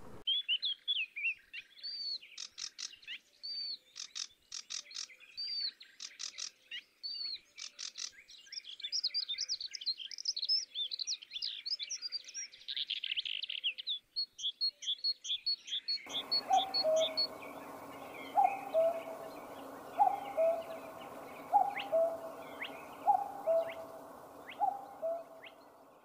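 Dubbed-in bird song: a busy chorus of high chirps and rapid trills. About two-thirds of the way through it switches to a repeated two-note call, high then lower, about every second and a half, over a steady hiss.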